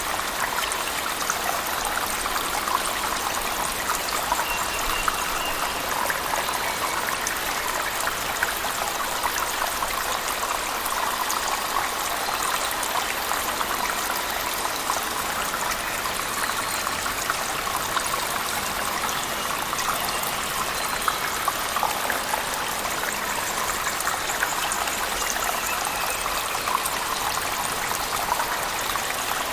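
Cave waterfall and heavy rain mixed together: a steady rush of falling water, with scattered small splashes and drips.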